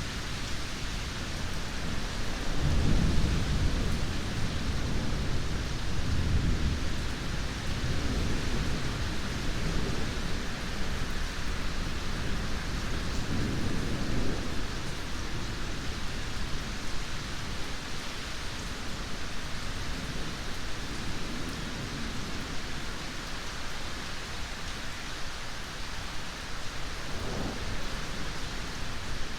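Steady heavy rain hissing throughout, with rolling thunder rumbling low in several swells in the first half, strongest about three seconds in, then dying away, and a short distant rumble near the end.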